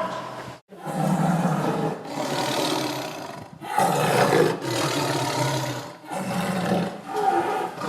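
Tiger roaring and growling, a string of long calls one after another with brief pauses between them.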